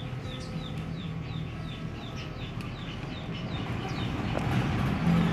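A bird chirping over and over: short, high, falling chirps about three a second, over a low steady hum.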